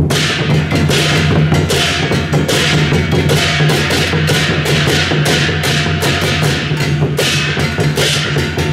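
Procession percussion band playing: drums and cymbals struck in a fast, steady beat over a steady low hum.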